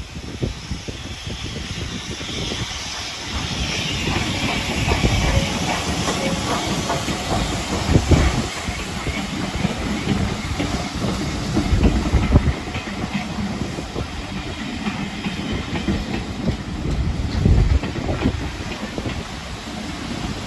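Steam train moving through the station, with steam hissing and wheels clicking over the rail joints. Gusts of wind buffet the microphone with low rumbles.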